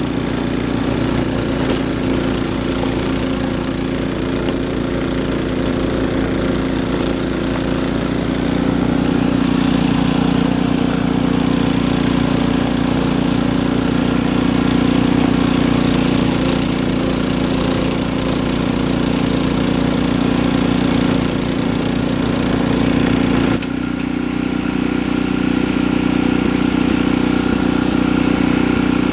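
Snowblower's small gas engine running steadily, with a steady high whine above the engine note. The sound shifts abruptly a little over 23 seconds in.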